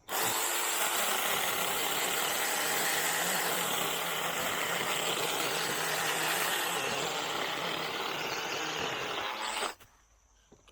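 Cordless 6-inch mini chainsaw on a DeWalt battery, running steadily as it cuts through a Chinese tallow trunk for about ten seconds. It starts sharply and cuts off suddenly near the end.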